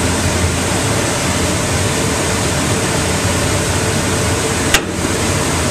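Steady background hum and rushing noise of shop equipment running, with one sharp click near the end.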